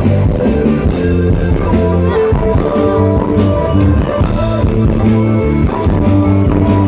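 Loud live band music through stage speakers: a steady instrumental passage with guitar and drum kit over heavy bass, between sung lines.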